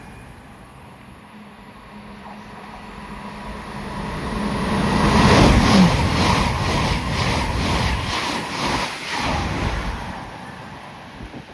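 A train passing at speed: its sound builds to a peak, the pitch drops as it goes by, and then comes a quick run of regular wheel clacks over the rail joints before it fades away.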